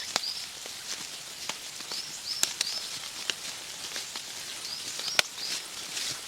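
Woodland ambience: a bird repeating a short group of high chirps about every two and a half seconds over a steady high hiss, with scattered light ticks and patters.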